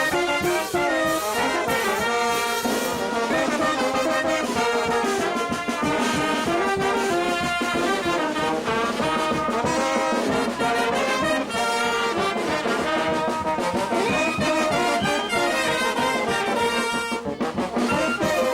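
Peruvian brass band playing a tune, trumpets and trombones carrying the melody at a steady, loud level.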